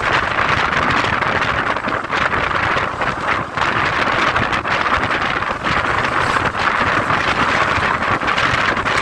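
Mumbai suburban local train running: a loud, steady rush of wheel and air noise, with wind buffeting the microphone.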